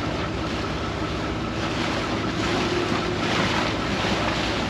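Vaporetto water bus under way: its engine rumbles steadily beneath the rush of water along the hull and wind on the microphone. The water-and-wind hiss grows louder about two seconds in.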